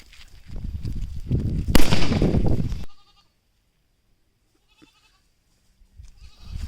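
Sony Fireworks 'King of King' bomb, a large cracker, going off with one loud bang about two seconds in, after a second of rising noise; the sound cuts off suddenly about a second later.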